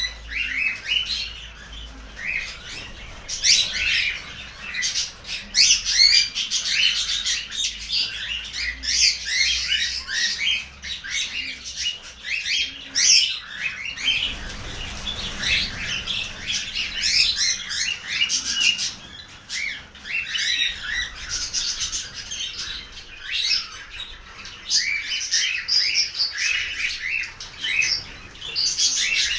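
A flock of cockatiels calling together in an aviary: many overlapping squawks, chirps and short whistles, without a break.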